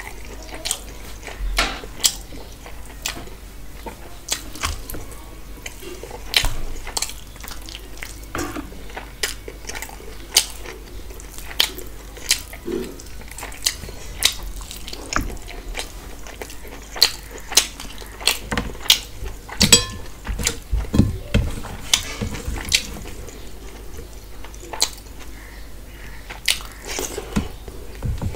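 Close-up eating sounds of rice and mutton curry eaten by hand: wet chewing and lip-smacking with many irregular sharp mouth clicks.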